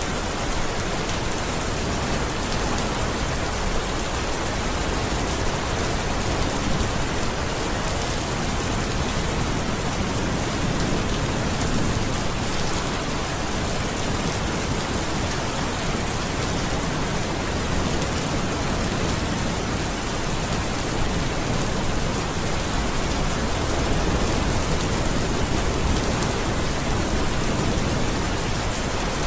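Steady, heavy rain falling, an even dense hiss with no let-up.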